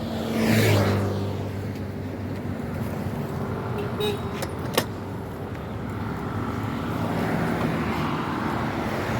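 A motor vehicle passes close by with an engine hum, then steady road traffic noise. Two sharp clicks come about four and five seconds in.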